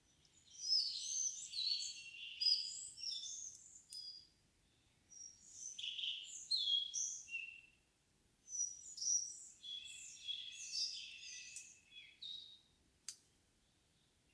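A songbird singing three long, varied phrases of quick whistled and trilled notes, separated by brief pauses, in a quiet evening forest. A single sharp click comes near the end.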